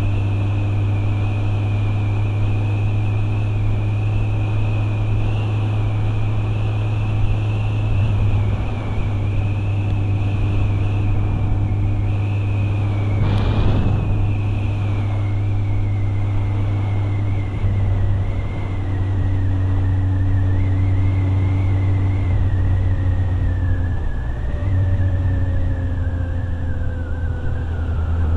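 Motorcycle engine running steadily while riding, with a high whine that slowly falls in pitch. A brief rushing sound comes about halfway through.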